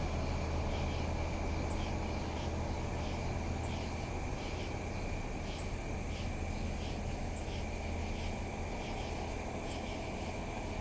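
Steady low hum of idling vehicle engines, with night insects chirping in a steady rhythm over a constant high whine.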